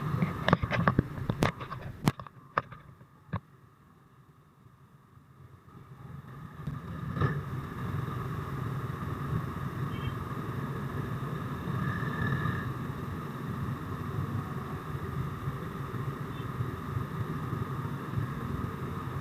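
Suzuki Raider motorcycle running while ridden, a steady engine and road hum. A few sharp knocks come in the first seconds, then the sound drops quiet for a moment before the hum builds back up.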